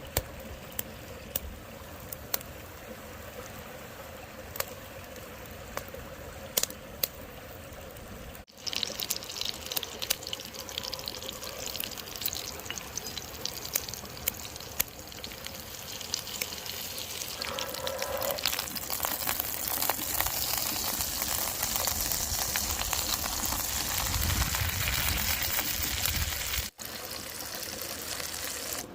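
Mountain river water running and trickling, heard over several cut-together shots. Sharp clicks sound through the quieter first part, and the water grows louder and brighter after a cut about eight seconds in.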